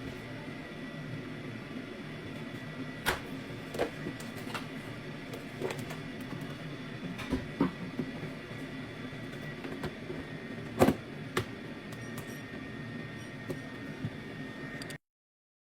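Scattered light clicks and knocks, the loudest about eleven seconds in, over a steady hum with a faint high whine; the sound cuts off near the end.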